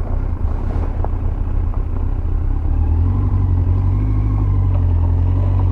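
2001 Yamaha FZS1000 Fazer's inline-four engine running steadily as the bike rides on a gravel road. The engine note grows louder and steadier about three seconds in.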